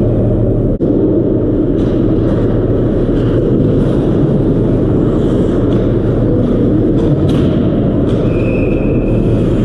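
Loud, steady rumbling ambience of a game with a few faint knocks. Near the end comes a short, steady high whistle tone about a second long.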